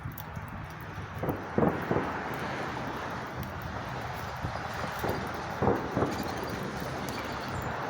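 Distant fireworks going off as several dull bangs, a cluster of three a little over a second in and two more close together near six seconds in, over a steady outdoor background rumble.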